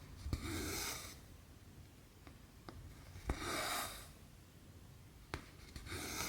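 Cotton embroidery thread pulled through cross stitch fabric by hand: three rasping pulls a few seconds apart. Sharp clicks of the needle piercing the fabric come between them.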